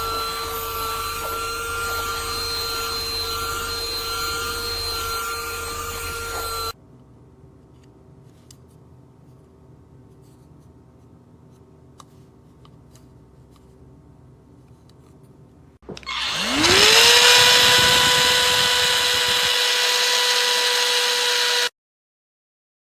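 Bissell AeroSlim cordless handheld vacuum running with a steady high whine, which stops abruptly about seven seconds in, leaving a faint hum and a few small clicks. About sixteen seconds in the motor starts and spins up with a rising whine to full speed, runs steadily for several seconds, and stops abruptly.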